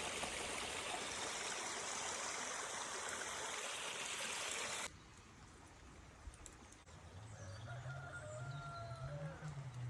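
A stream flowing steadily until an abrupt cut about halfway through. Then a long, low-pitched farm animal call rises and holds, with small birds chirping faintly.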